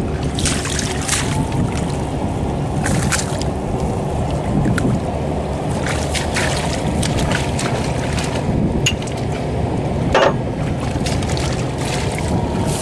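Tractor diesel engine running steadily, with scattered sharp metal clinks and knocks over the drone, the loudest about ten seconds in.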